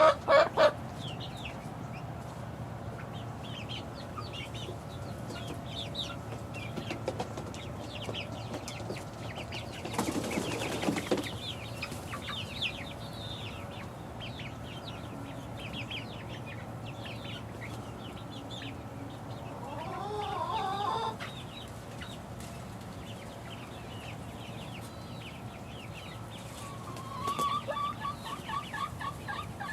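Six-week-old chicks peeping with many short high chirps, and a louder run of rapidly repeated calls near the end. About ten seconds in there is a brief rustling flurry.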